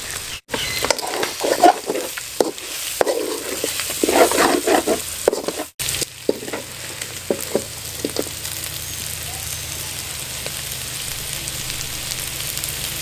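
Chicken pieces frying dry with spices in a pan and sizzling. A spatula scrapes and knocks against the pan as it stirs through the first half, then the sizzle carries on evenly.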